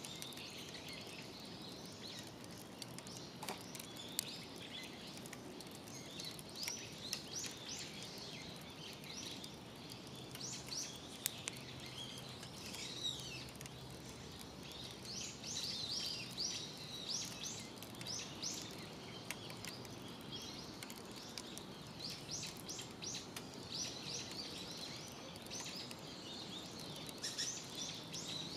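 Small birds chirping in quick repeated series, with a few sharp crackles from the wood fire in a camp fire pit over a steady outdoor background hiss.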